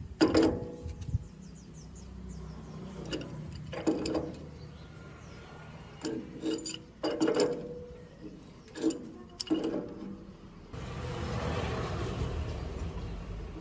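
Metal parts clinking and being knocked together several times, each strike ringing briefly. About eleven seconds in, a steady rushing noise starts and keeps on.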